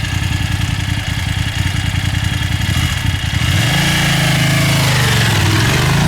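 BMW F 850 GS parallel-twin engine through an Akrapovic exhaust, idling with an even pulsing beat, then revved about three and a half seconds in: the note rises, falls back and rises again near the end.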